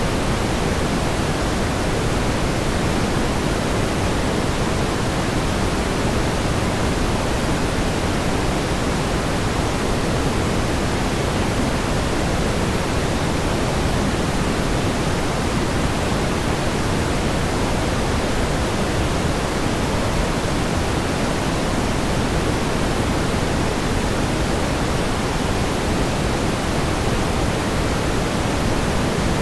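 Steady pink noise: an even, unchanging hiss-like rush, fuller in the low end than white noise, with no rhythm or events.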